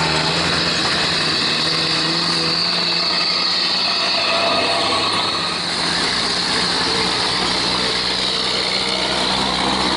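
Aircraft engine running steadily: an even, loud mechanical hum with a steady high whine over it.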